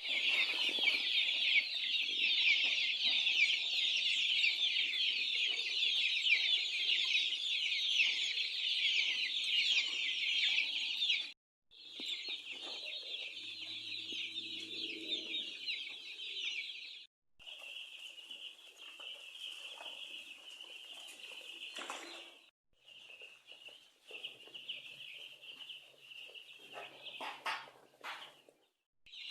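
A large flock of broiler chickens cheeping and clucking all at once in a dense, high chorus. The sound cuts off abruptly about 11 seconds in and returns quieter, with further sudden breaks near 17 and 22 seconds and near the end.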